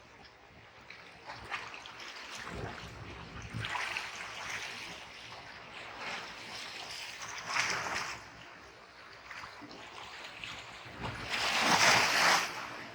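Black Sea surf: waves breaking and washing up the shore in repeated surges, the loudest breaking near the end.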